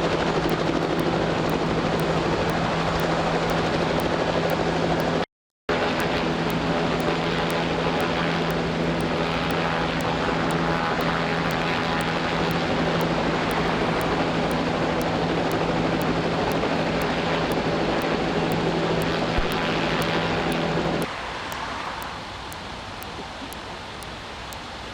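Steady, loud engine drone with a constant hum, broken by a split-second dropout about five seconds in. Near the end it gives way to a quieter, even rushing sound of the fast-flowing floodwater.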